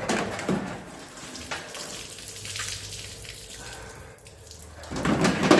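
Liquid pouring and splashing out of an old Chevy 350 V8 engine as it is hoisted out of the car, with a few knocks near the end.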